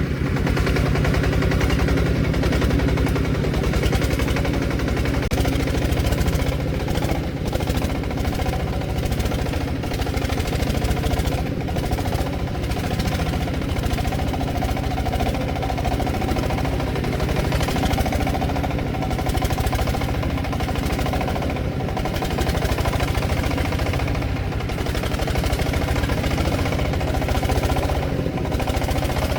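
Single-cylinder diesel engine of a Vietnamese công nông agricultural truck running steadily, its firing pulses in a fast, even beat.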